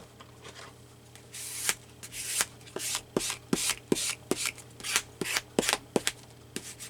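Scissors snipping through paper: a quick run of short cuts, about two or three a second, starting a little over a second in.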